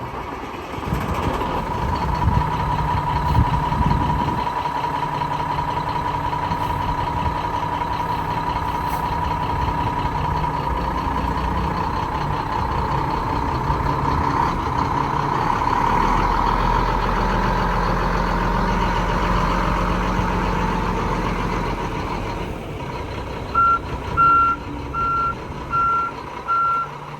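Mack RD690S truck's diesel engine running steadily, with a steady high whine over it for most of the time. Near the end, a reversing alarm starts beeping about once a second.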